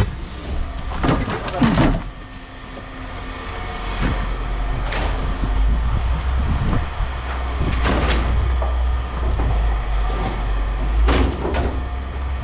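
A vehicle engine running steadily at a low rumble, with a few sharp metal clanks and knocks spread through it.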